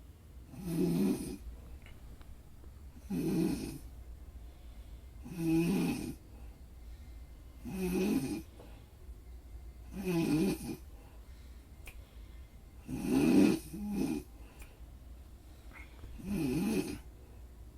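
Steady rhythmic snoring: one snore just under a second long about every two and a half seconds, seven in all, the sixth coming as a quick double. A faint low hum runs steadily underneath.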